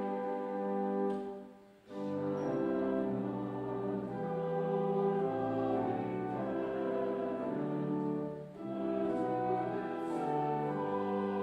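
Brass quintet playing slow sustained chords in phrases, with short breaths between phrases about two seconds in and again near the end.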